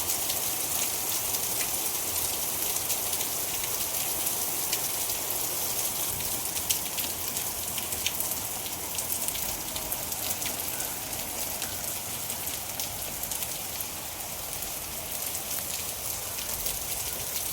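Steady rain falling and pattering on surfaces, with many small drop hits over a continuous hiss.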